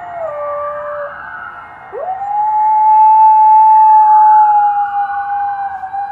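Dog howling: one howl drops in pitch and trails off about a second in, then a new long howl swoops up about two seconds in and is held steady for several seconds. A siren wails faintly behind it.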